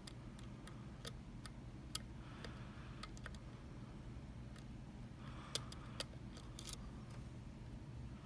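Lock pick working the pins of a Mul-T-Lock MT5 under tension: scattered light metallic clicks and faint scraping at uneven intervals, over a steady low hum.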